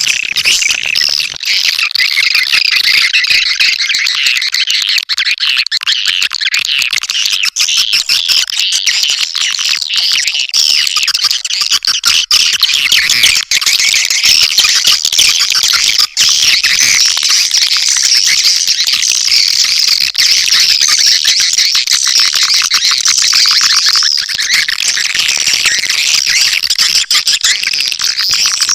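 Swiftlet lure call: a dense, continuous chorus of high twittering chirps from edible-nest swiftlets, the recording played to draw swiftlets into a nesting house.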